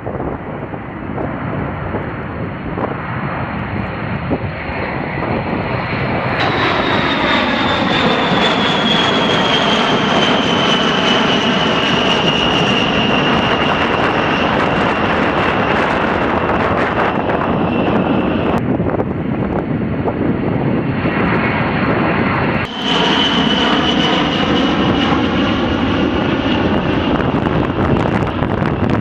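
Jet engines of a B-52 bomber running, a high whine that slowly falls in pitch over the steady engine noise. The sound changes abruptly a few times, as between separate clips of the aircraft.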